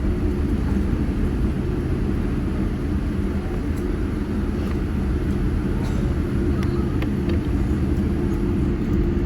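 Steady low rumble and hum of a Boeing 787-8 heard from inside the passenger cabin as it taxis after landing, with a few faint ticks of cabin rattle.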